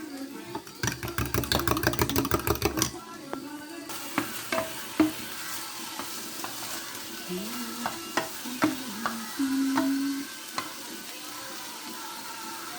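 Stirring in a frying pan: a quick, even run of utensil clicks against the pan for about two seconds, then occasional single clinks, over food sizzling as it fries.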